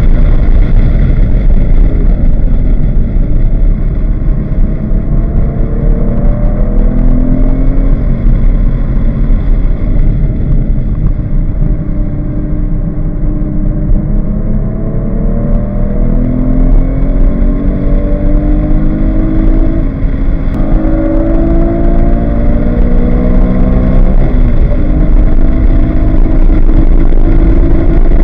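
Porsche 911 GT3 flat-six engine heard from inside the cabin, driven hard on track. It runs high in the revs, drops off under braking with a downshift for a corner, then climbs again through the gears under full acceleration, with steady wind and road noise.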